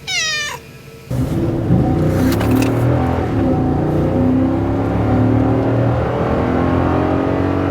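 A brief falling meow, then, about a second in, a motor vehicle's engine sound cuts in abruptly and runs on steadily, its pitch rising slowly as it accelerates.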